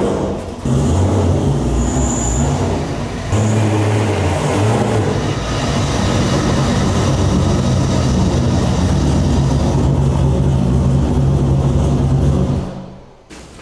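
Corvette race car's engine running loudly as the car creeps into the garage: two blips of the throttle in the first few seconds, then a steady idle that stops near the end.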